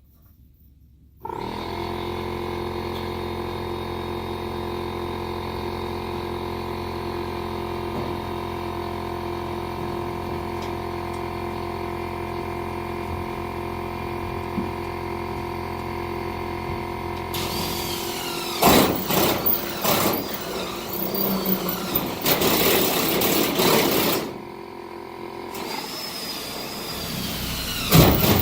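Power drill starts about a second in and runs steadily with a constant motor whine. Later the bit bites into the work, adding a rough grinding noise with squeals for several seconds. The drill then stops and starts cutting again near the end.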